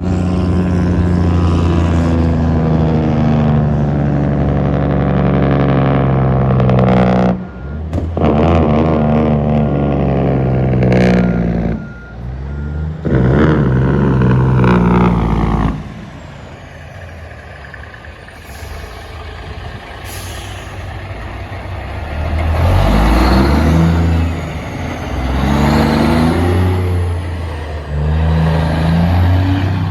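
Semi trucks' diesel engines running loud with a deep, even note as they go by, in several short segments that cut off abruptly. There is a quieter stretch of road noise in the middle, then another loud truck engine whose note rises and falls near the end.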